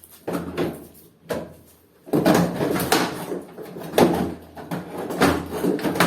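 Plastic top panel of a semi-automatic washing machine being pushed, lifted and slid open by hand: a run of knocks, scrapes and rattles, busiest in the second half.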